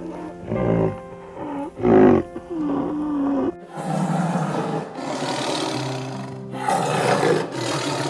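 Animal calls over background music: short, loud pitched calls in the first half, then, after a brief break, a long rough tiger growl.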